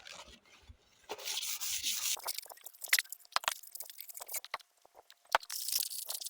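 Fine sandpaper rubbed in strokes over the surface of a metal chimney pipe, a scratchy hiss, with short clicks and taps from handling in between.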